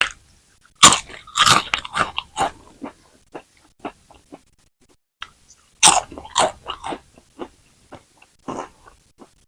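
Close-miked bites into crispy fries: two loud crunches, about a second in and again about six seconds in, each followed by chewing with crisp crackles that fade out.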